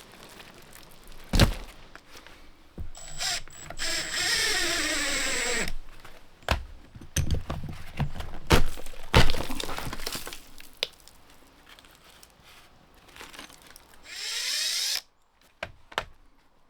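Handheld power tool, drill-like, run twice in short bursts while removing tar-like pitch from a wooden boat's bilge: the first run winds down with falling pitch, and the second rises in pitch and cuts off suddenly. Sharp knocks and clatter come between the runs.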